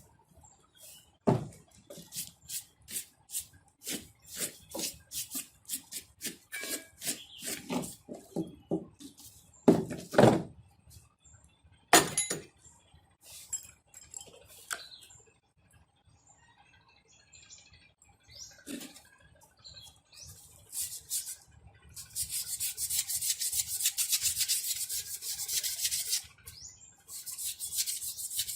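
Hand tools working on engine starter parts: a run of small clicks and knocks, two louder knocks about ten and twelve seconds in, then several seconds of rapid scraping near the end.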